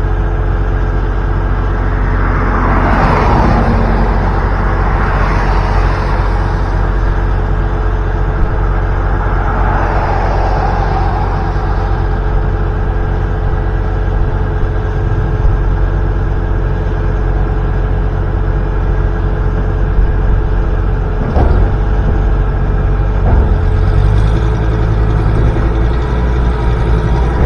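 A truck engine running steadily with road or traffic noise; a few vehicle swooshes swell and fade in the first ten seconds, and there are a couple of brief knocks near the end.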